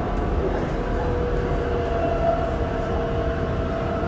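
BTS Skytrain running: a steady rumble with a steady whine that rises slowly in pitch.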